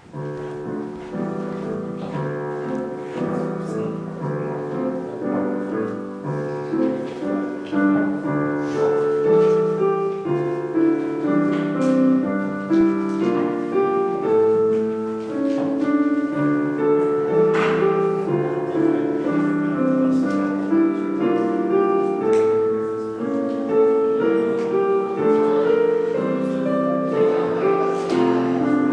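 Piano music begins just at the start and plays on, full chords under a moving melody line.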